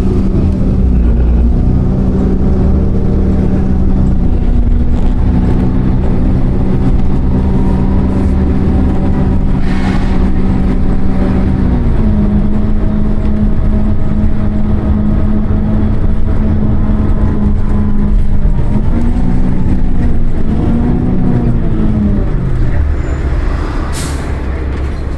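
Heavy road vehicle's engine running with a steady drone over a low rumble. Its pitch steps up slightly about halfway through, rises and falls a few times near the end, then the drone drops away, leaving the rumble.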